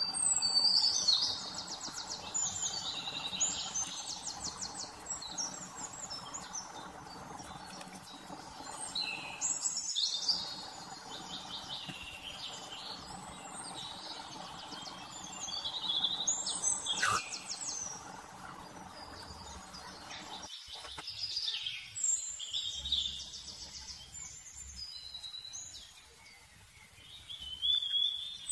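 Birds singing in several bouts of rapid high trills and chirps over a steady low background hum, which drops away about two-thirds of the way through.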